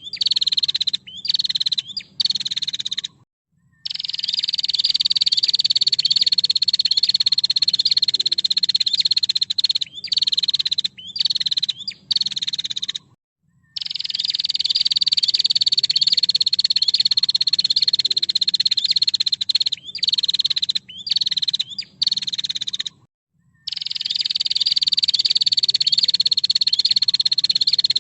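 Female prinia (prenjak) giving a fast, high, buzzy trill. Each long bout lasts several seconds and falls slightly in pitch, then comes a string of short chattering bursts and brief silences. The same phrase repeats about every ten seconds.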